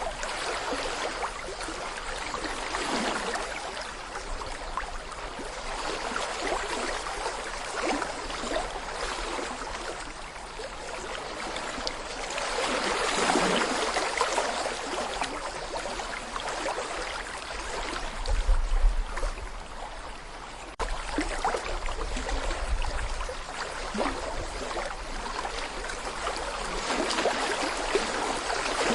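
Small brook babbling and gurgling over stones, a continuous rush of water that swells and eases gently. A brief low rumble comes in about two-thirds of the way through.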